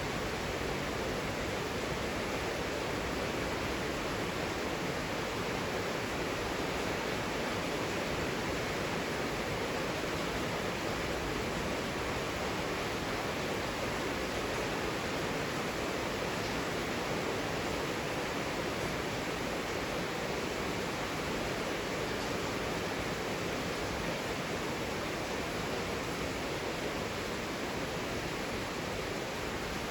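Heavy rain falling: a steady, even hiss with no single drops or thunder standing out.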